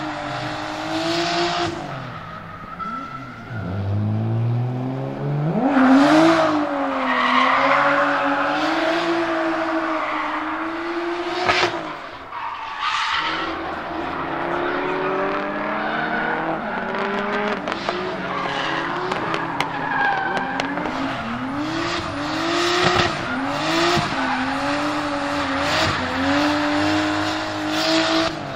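Nissan Skyline R33 GTS-T's turbocharged RB25DET straight-six drifting, its revs rising and falling again and again over a steady tyre squeal. Sharp bursts from the external wastegate venting come throughout. The sound drops off briefly about twelve seconds in.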